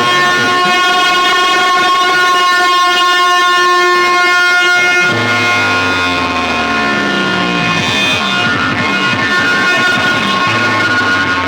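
Loud electronic music through a DJ sound system: a held, horn-like chord over falling, sweeping lower tones, shifting to a deeper bass about five seconds in.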